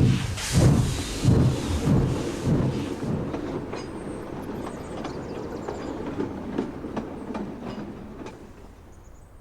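Steam locomotive chuffing in a regular beat, about one and a half chuffs a second, fading away after about three seconds, with light rail clicks as it dies out.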